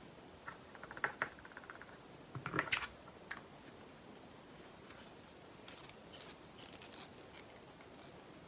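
Quiet handling of diamond painting supplies: a short rattle of small resin drills about a second in, a louder plastic clatter a couple of seconds later, then a click and faint rustling of small bags and pots.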